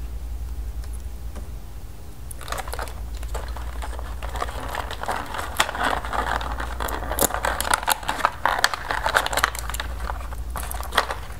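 Hands handling the plastic toy helicopter and its pieces: crinkling, rustling and quick irregular clicks, starting about two seconds in and easing off shortly before the end, over a steady low hum.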